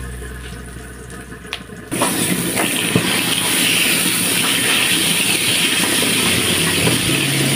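Raw chicken pieces dropped into hot oil in a wok, sizzling loudly from about two seconds in, with a wooden spatula clicking and scraping against the pan as they are stirred.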